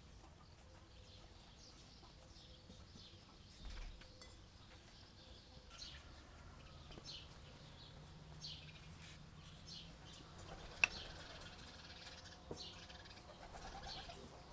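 Birds chirping faintly, short high calls scattered through, with one sharp click about three-quarters of the way in.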